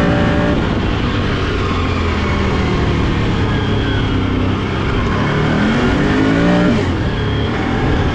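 Can-Am off-road vehicle's engine running while being ridden. Its pitch rises as it revs up about five and a half seconds in, then drops away about a second later.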